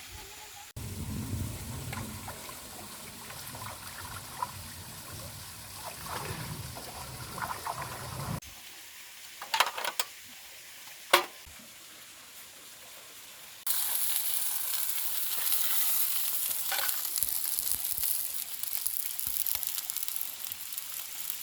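Food frying in a pan, a steady sizzle that gets loud and bright in the last third. A few sharp clacks of a utensil come near the middle.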